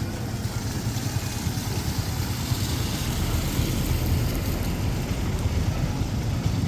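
A motor vehicle's engine running close by, a steady low rumble, over a continuous hiss of street noise that swells a couple of seconds in.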